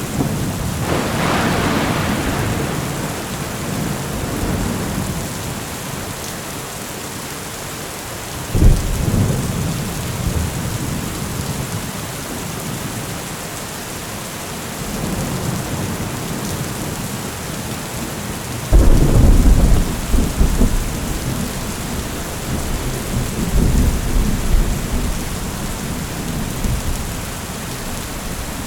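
Thunderstorm with steady rain. Thunder rumbles about a second in, cracks sharply near nine seconds, then gives its loudest clap near nineteen seconds and rolls on for several seconds.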